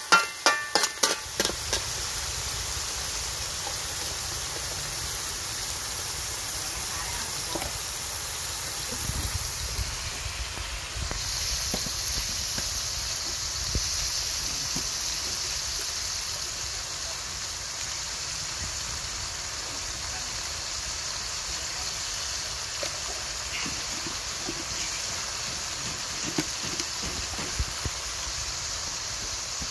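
Snails and crabs sizzling as they fry in a metal wok, a steady hiss that grows louder about eleven seconds in, with a few light scrapes and clicks of a metal spatula against the pan.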